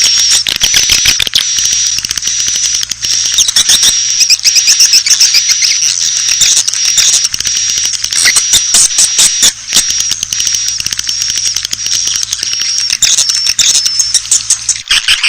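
Many swiftlets chirping and twittering in dense, rapid, high chirps, with a thin steady high tone running over them and a low hum beneath. This is a swiftlet lure call track of the kind played to draw the birds into a nesting house.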